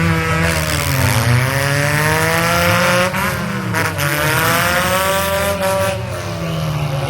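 Demolition derby car engine revving, its pitch climbing over a couple of seconds and falling back, twice, over the steady low rumble of running engines.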